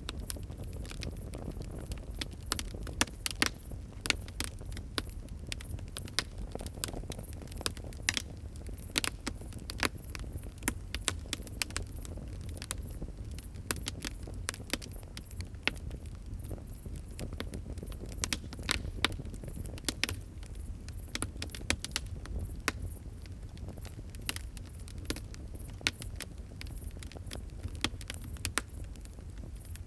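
Wood fire crackling and popping: irregular sharp snaps scattered throughout, over a steady low rumble of the burning.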